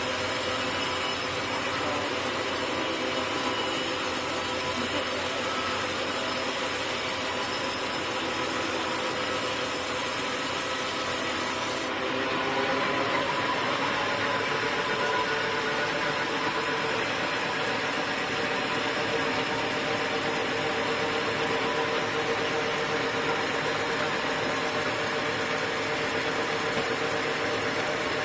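Sawmill running steadily, its saw cutting through a log with a constant grinding noise and an even engine tone underneath.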